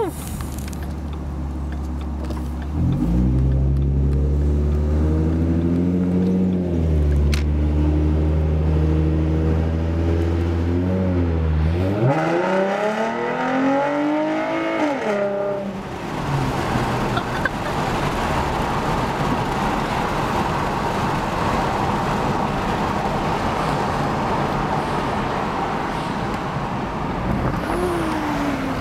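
2011 Ford Mustang's 3.7-litre V6 through a Roush axle-back exhaust: the note picks up about three seconds in and settles into a steady low drone. About twelve seconds in it climbs in pitch as the car accelerates, then gives way to a steady rush of road and wind noise.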